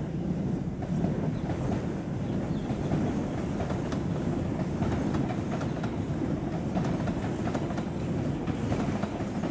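A train running along the tracks: a steady rumble of wheels on rail, with clacking as the wheels pass over rail joints.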